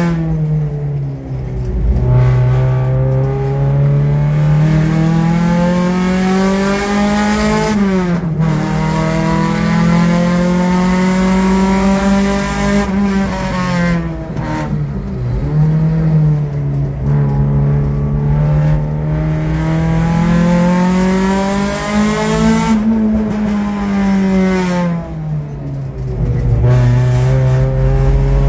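Nissan Pulsar engine heard from inside the cabin under hard track driving. The revs climb steadily and then drop sharply at gear changes, several times over. About three quarters through they fall away more slowly before the car pulls again.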